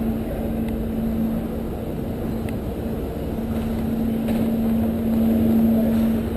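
Steady engine drone: a low rumble with a constant hum that holds one pitch.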